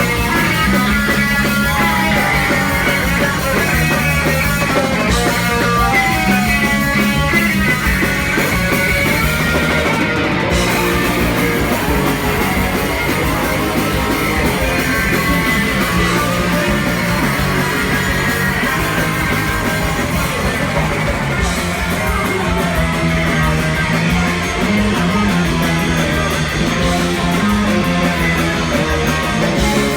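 Punk rock band playing live at full volume: electric guitars, bass and drums.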